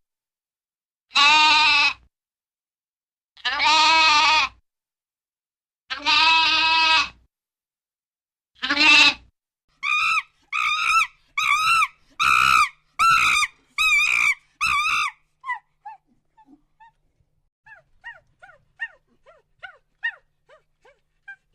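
Farm animal calls: four long, wavering calls about a second each, then a quicker run of about six shorter calls, trailing off into faint high chirps near the end.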